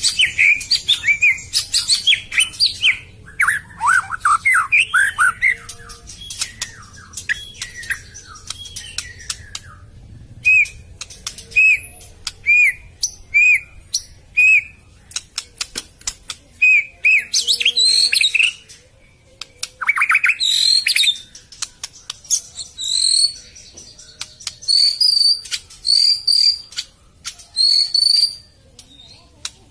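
A murai (magpie-robin type songbird) singing a varied, loud song of whistled phrases and chirps. It includes a run of repeated short whistles about ten seconds in and a series of high, clear notes near the end.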